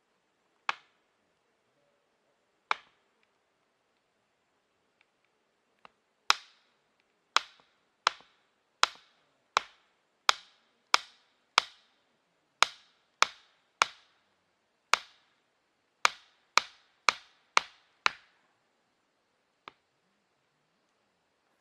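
Repeated sharp wooden knocks, typical of firewood being chopped or split for a campfire. Two single knocks come first, then a steady run of about seventeen strikes, roughly one and a half a second, and one faint knock near the end.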